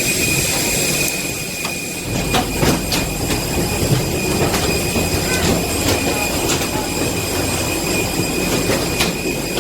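Airbus A321 cabin ambience during boarding: a steady hum of the ventilation with a constant high-pitched whine, and scattered clicks and knocks through it.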